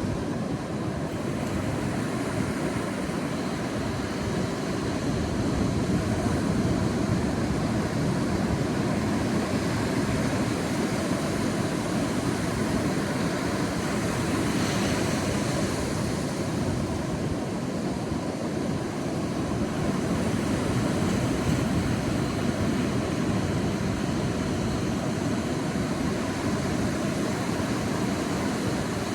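Sea waves washing onto a beach: a steady rush of surf that swells and eases every several seconds, with a brighter hiss of a breaking wave about halfway through.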